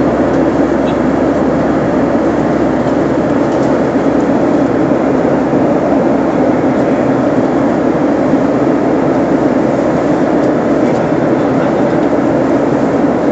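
Steady, loud noise inside an airliner cabin: the drone of the engines and the rush of air past the fuselage, holding an even level throughout.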